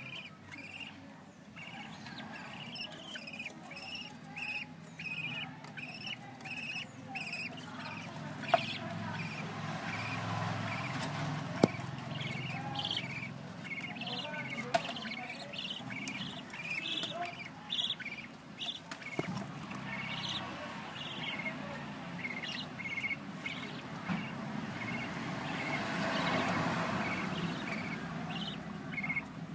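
Budgerigars chirping in quick, short, repeated calls, with a few sharp clicks in between.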